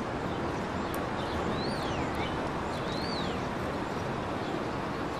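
Steady outdoor background hiss with a bird calling twice, each call a short whistle that rises and then slides down in pitch.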